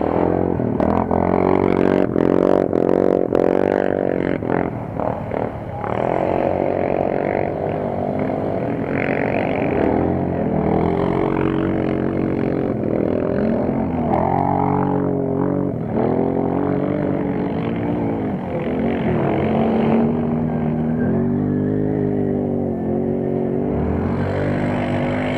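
Quad-bike (ATV) engines revving in an off-road race, their pitch repeatedly rising and falling, with more than one machine heard at once.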